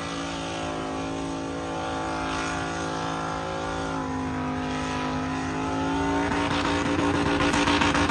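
Mud truck engine running at a steady high speed, then revving up harder and louder from about six seconds in, the sound turning rougher near the end.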